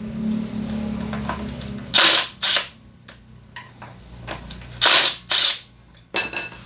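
A power tool run in short bursts, two pairs about half a second apart, loosening engine bolts, with a steady low hum before the first pair and a short whine near the end.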